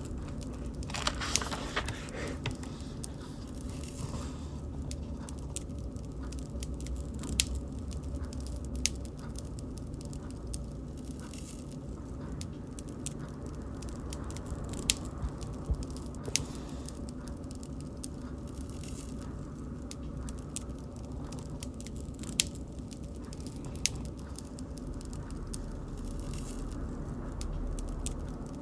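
Wood bonfire crackling: sharp pops every second or so over a steady low rumble of the flames, with a brief louder rush of noise about a second in.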